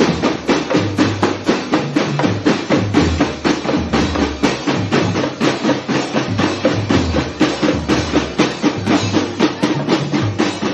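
Drum kit played at a steady, fast beat during practice: a rapid, even run of sharp stick strokes over repeated kick-drum thuds.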